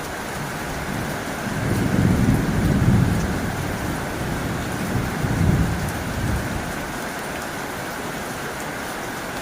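Heavy rain falling steadily on a tin roof, with two low rumbles that swell and fade, the first and louder about two seconds in, the second around five seconds in.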